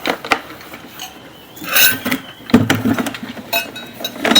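Scattered metallic clinks and clicks, with two louder rattling clatters about two seconds in.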